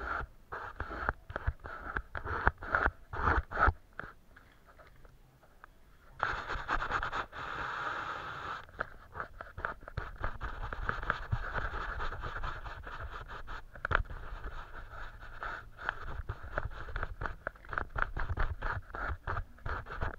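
Painting strokes scratching on paper: many short, quick strokes, a pause of about two seconds around four seconds in, then a longer unbroken stretch of scratching before the short strokes resume.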